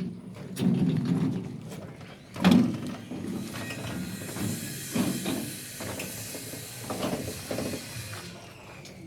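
Several knocks and thumps over a low rumble, with a steady hiss that starts about three seconds in and stops about five seconds later.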